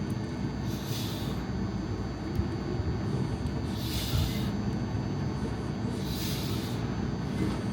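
Steady low rumble of a vehicle moving on the road, heard from inside, with a short hissing swish every two to three seconds.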